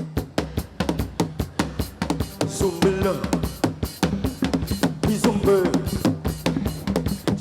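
Live band playing an instrumental passage: drum kit keeping a steady beat with bass drum and snare, over bass and other instruments.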